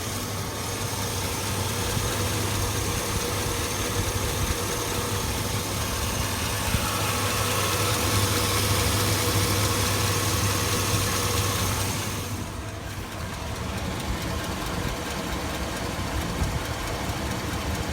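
A 2002 Chevy Avalanche's 5.3-litre V8 idling warm with a tick, which the owner takes for a cracked exhaust manifold, though he also wonders about worn valve guides.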